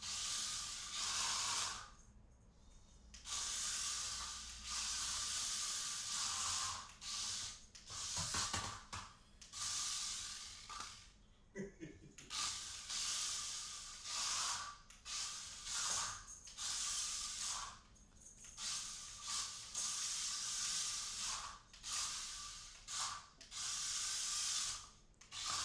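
Mini RC stunt roller car's small electric drive motors whirring in repeated spurts of a second or two each, with short pauses as it is driven forward, back and spun.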